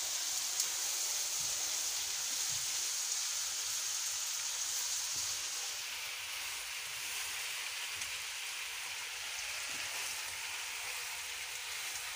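Tripe, onions and ground spices sizzling in oil in a frying pan as they are stirred with a spatula, just after ginger-garlic paste has gone in. The hiss is steady and drops lower about halfway through.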